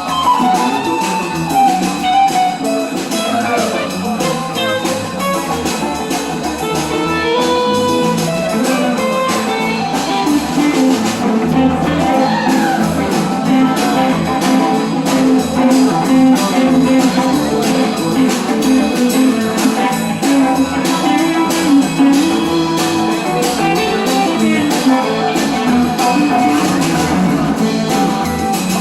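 Live band playing, led by guitar, with a steady beat.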